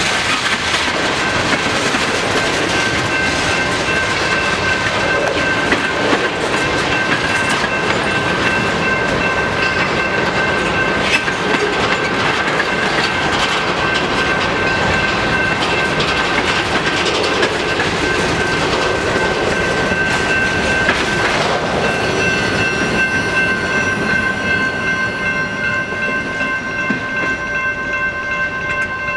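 Freight cars rolling by at a grade crossing, their wheels clattering over the rail joints, while the crossing signal's bell rings steadily. The rolling noise thins out near the end as the last cars pass.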